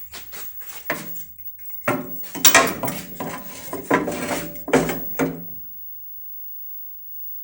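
Hard objects, most likely metal tractor spare parts, clinking and clattering as they are handled, in a quick run of knocks that stops after about five seconds.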